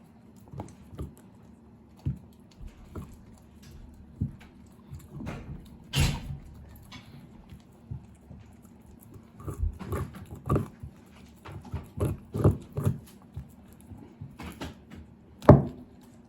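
Kai Ken dog gnawing and crunching a bear bone: irregular sharp cracks and crunches, with the loudest about six seconds in and again near the end and a run of them in between.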